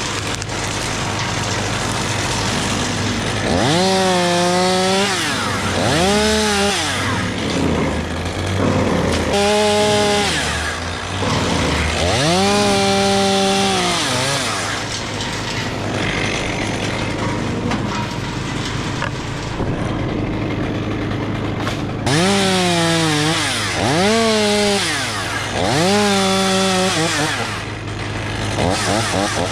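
Chainsaw revving up and dropping back in about seven short bursts while cutting wood, in two groups with a pause between, over a steady low engine drone.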